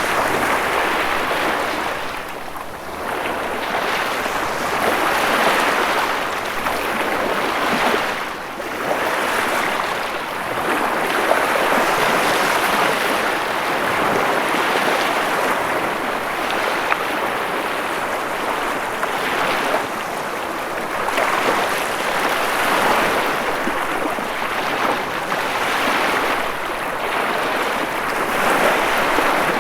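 Ocean waves breaking and washing on the shore, a steady surf rush that swells and recedes every few seconds.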